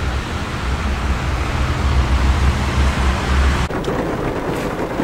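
Rain falling, a steady hiss over a low rumble. The rumble drops off abruptly about three and a half seconds in.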